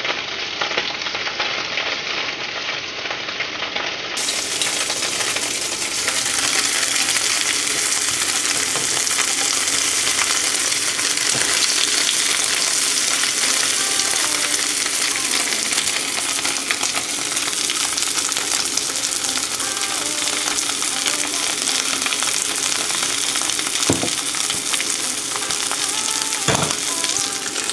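Fish balls and crab sticks frying in oil in a stainless-steel wok, a steady sizzle as they are stirred with chopsticks. A couple of light knocks come near the end.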